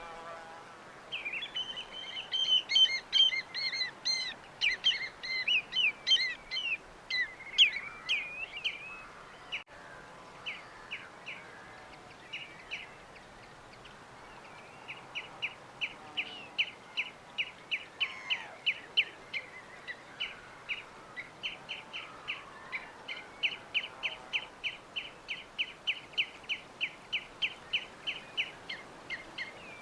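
Songbirds chirping: a busy tangle of overlapping chirps and trills for the first several seconds, then after a pause a long run of short, evenly repeated chirps, about three a second, over a faint steady hiss.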